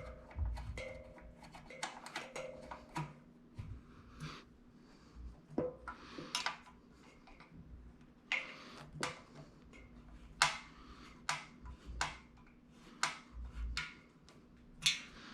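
Irregular clicks, clinks and taps of metal parts and hand tools being handled while brackets are fitted to a plotter stand's frame.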